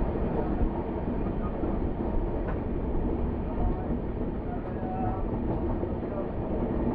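Train running on the line: a steady rumble of wheels on the track.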